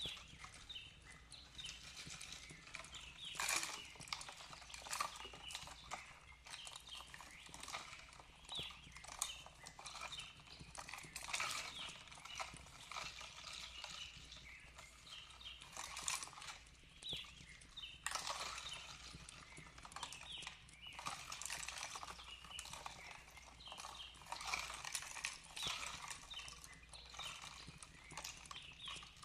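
Wood fire crackling in a fireplace: a hiss broken by many irregular pops and snaps.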